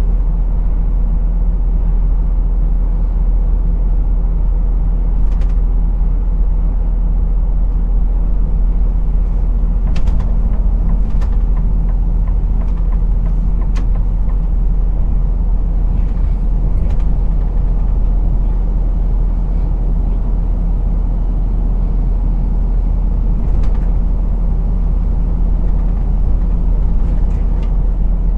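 Truck engine and road noise heard from the cab, a steady low rumble, with a few scattered faint clicks.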